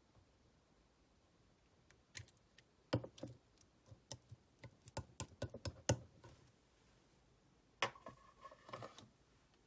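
Clear slime being squeezed and pressed by hand, giving a run of sharp clicks and small pops starting about two seconds in and lasting some four seconds, then a brief second burst near the end.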